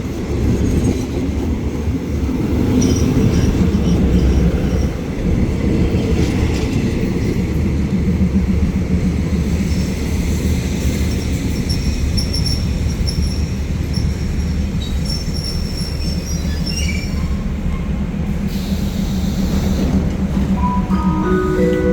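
Passenger train carriages running over the rails with a heavy low rumble while the train slows, with high wheel and brake squeal coming and going through the middle. Near the end, a chime of a few steady notes starts over the train's PA.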